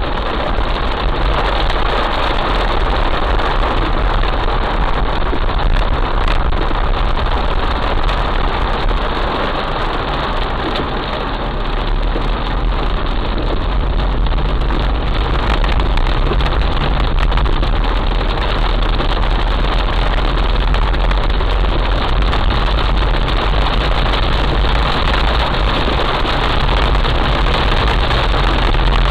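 Heavy rain falling steadily: a dense, even hiss with a deep low rumble underneath.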